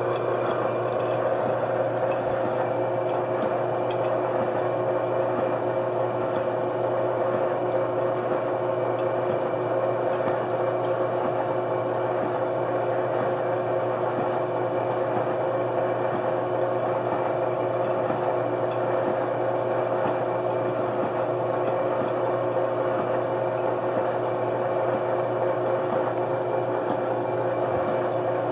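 A motor-driven shop machine running steadily with a constant hum made of several fixed tones, with no change in speed or load.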